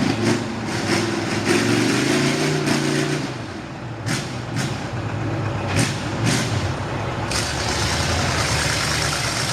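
V8 mud truck engine with open upright headers, held on the throttle for about three seconds, then easing off to lower, rougher running. A few sharp knocks come through midway.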